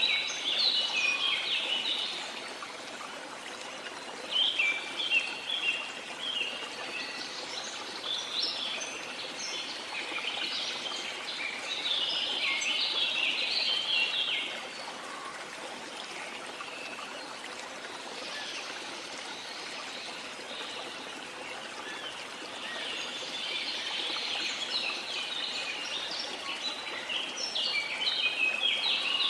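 Jungle birds chirping in quick bursts that come and go every few seconds, over the steady rush of falling water from a waterfall.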